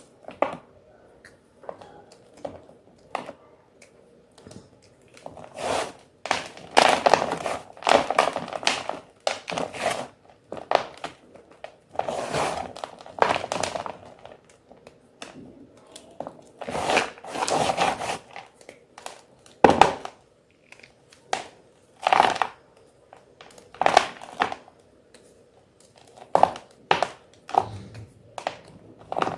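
White gym chalk (magnesium carbonate) being crunched and crushed, in repeated bursts of crunching with single sharp cracks and quieter gaps between.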